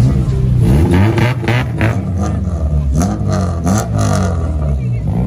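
Car engine revving over a steady low rumble, its pitch rising and falling several times.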